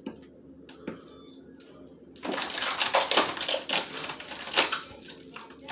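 Rapid clattering and rattling of small hard objects. It starts about two seconds in and lasts about three seconds, after a few faint clicks.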